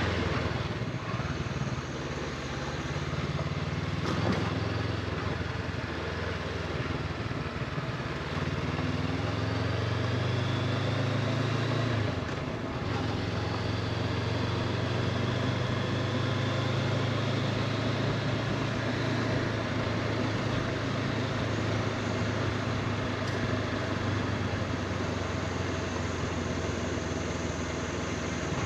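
An engine running steadily with a low, even drone, its pitch shifting slightly about twelve seconds in.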